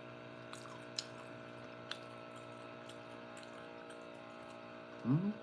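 Quiet eating of chicken soup with softened chicken bones: a few faint clicks and soft wet mouth sounds over a steady background hum, with a brief vocal sound near the end.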